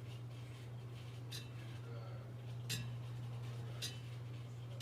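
Old Littleton ceiling fan running with a steady low hum and a sharp clink about every second and a quarter, the regular rattle of a loose part on the turning fan.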